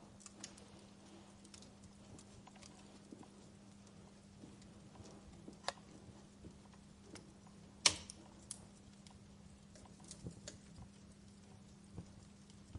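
Wood fire crackling: irregular small snaps and pops, with one much louder pop about eight seconds in, over a faint steady low hum.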